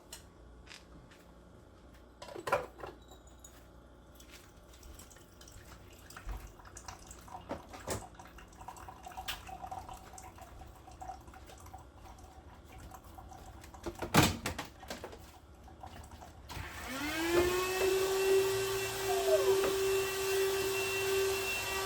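Scattered knocks and clatter of kitchen things being handled, then a vacuum cleaner switches on near the end: its motor whine rises quickly and settles into a steady tone over rushing air.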